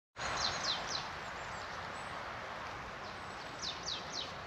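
Outdoor ambience with a steady rushing background noise, and a small bird calling twice, each call a quick run of three high notes sliding downward, one about half a second in and one near the end.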